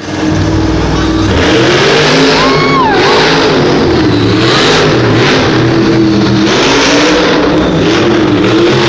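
Monster truck engine revving loudly, its pitch rising and falling repeatedly.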